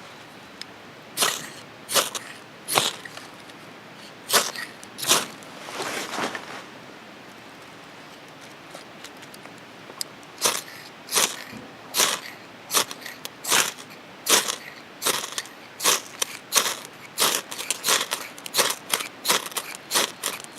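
A series of short crunching strokes: a few spaced out at first, then after a pause a steady run of about one and a half a second.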